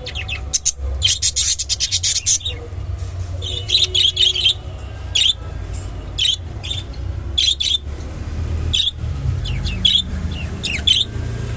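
Budgerigars chirping in short, sharp calls, with a fast run of chatter about a second in, over a steady low rumble.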